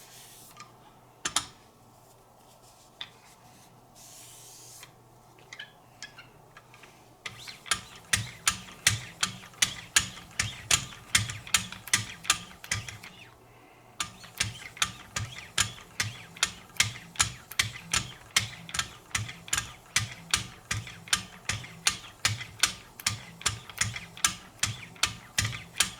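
Wicked Edge guided sharpener being worked with 9-micron lapping film: the paddle is drawn along a knife edge in short scraping strokes. There are a few scattered strokes at first, then from about seven seconds in a steady rhythm of about two strokes a second, each ending in a sharp click.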